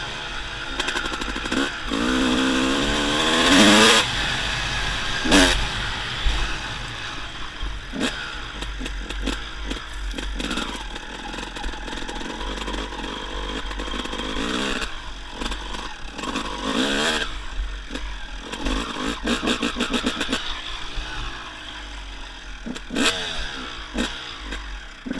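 Dirt bike engine revving up and easing off again and again, the loudest rise peaking about four seconds in, with scattered knocks and clatter.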